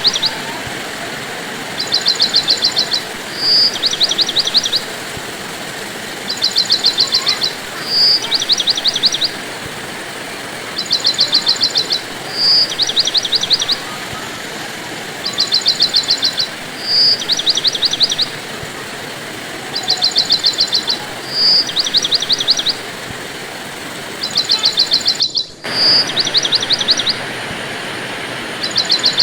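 Steady hiss of rain with a bird calling over it. About every four to five seconds the bird gives the same group: a rapid high trill lasting about a second, a single clear note, then another trill. The sound cuts out briefly about 25 seconds in.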